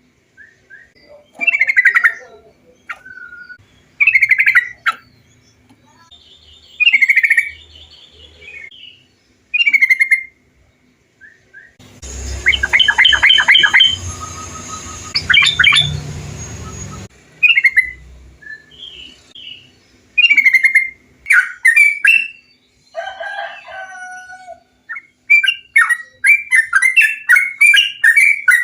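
Yellow-vented bulbuls (trucukan) singing: short bubbly phrases about every two seconds. A noisier stretch of rapid chattering comes in the middle, and near the end the phrases become a dense, fast run of chattering calls.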